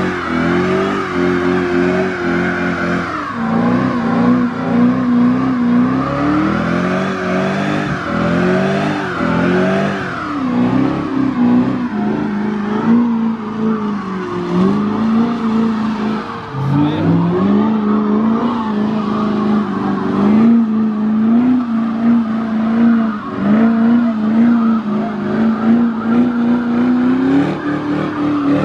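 Car engine revving hard and held at high revs during a burnout, the pitch dipping and climbing back again and again, with tyres squealing and spinning against the pavement.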